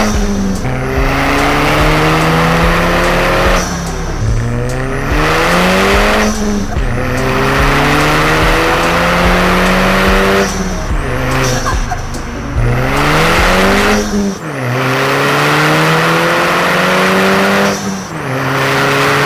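A 2-litre turbocharged four-cylinder Audi A4 engine with an Integrated Engineering cold air intake accelerating hard through the gears, its revs climbing steadily and dropping at each shift, several times, with loud intake and turbo hiss. There is a short flutter of released boost at the gear changes.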